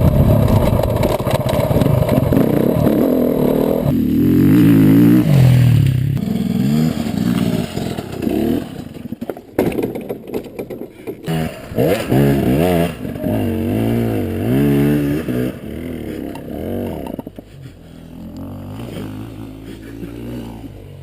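Dirt-bike engines revving, the pitch climbing and dropping again and again as the throttle is worked, loudest in the first half and tailing off near the end.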